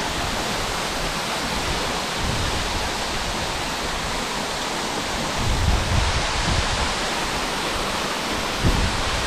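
Waterfall rushing steadily, an even roar of falling water, with a few low thumps about halfway through and again near the end.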